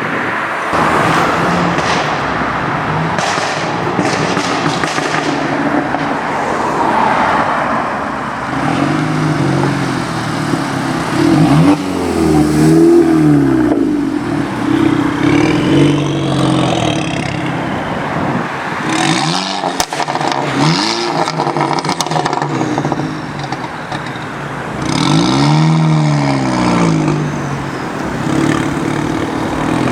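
Modified Volkswagen Golf hot hatches with aftermarket exhausts pulling away in turn, their engines revving up and down in several rising and falling sweeps, with a few sharp exhaust cracks.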